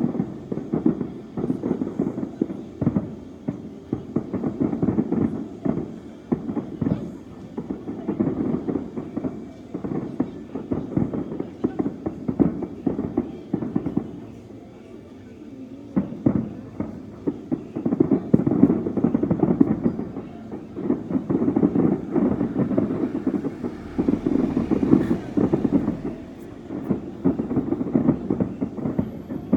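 Fireworks display: a dense, continuous run of bangs and crackles, easing into a brief lull about fourteen seconds in before picking up again.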